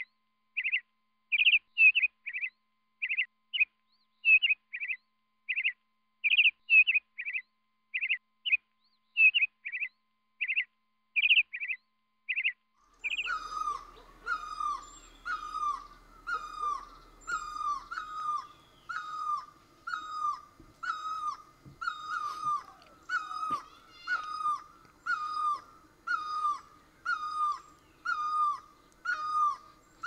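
A small bird chirps in quick pairs of short high notes. About thirteen seconds in, a great barbet takes over with its loud repeated call, a falling note a little more than once a second.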